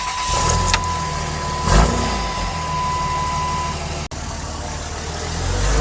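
5.9 Cummins inline-six diesel with a 4-inch straight pipe firing up and running with a deep exhaust rumble, with a brief louder burst about two seconds in and getting louder near the end. A steady high tone sounds for the first few seconds.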